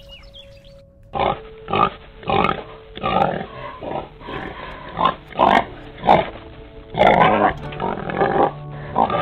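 Domestic pigs grunting: a run of about a dozen short, loud grunts that starts about a second in.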